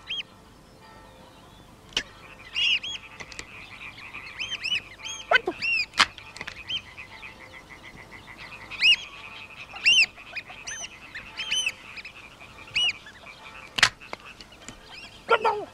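Birds chirping: many short, arching calls over a steady trill, with a few sharp clicks. Twice a call sweeps steeply downward, about five seconds in and near the end.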